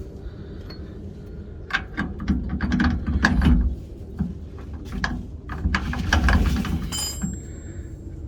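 Metal clicks and clanks from hand tools and bolts while a suspension strut is being fastened, in two busier stretches of clatter.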